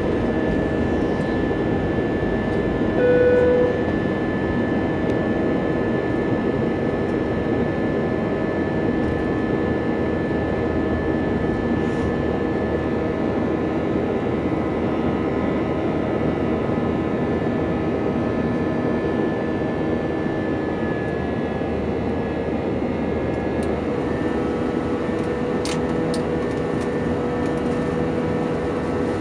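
Steady cabin noise of an Airbus A320-233 in flight: rushing airflow and the hum of its IAE V2500 engines, with a few steady tones running through it. About three seconds in, a short tone sounds briefly above the noise.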